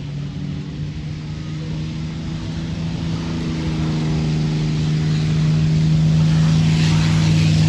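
North American P-51D Mustang's V-12 Merlin engine running at a steady pitch and growing steadily louder as the fighter is cleared for takeoff.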